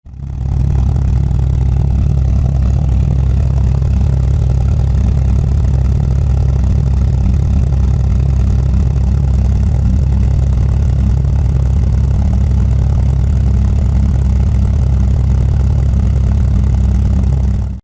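Skoda Felicia's engine idling steadily through a newly fitted exhaust, a low, even exhaust note that holds the same level without revving.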